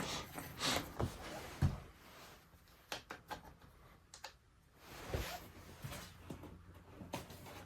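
Scattered light clicks and a few dull knocks of hands handling the hedge trimmer's plastic parts on a workbench.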